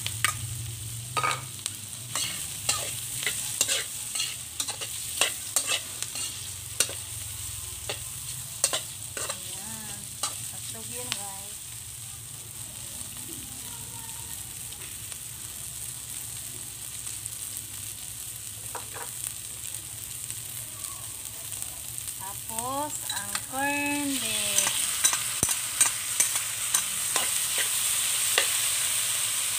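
Sliced hotdogs frying in oil in a metal wok with a steady sizzle, while a metal spatula clacks and scrapes against the pan in quick strokes, thickest in the first ten seconds or so. About three-quarters of the way through, the sizzle grows louder as corned beef goes into the wok.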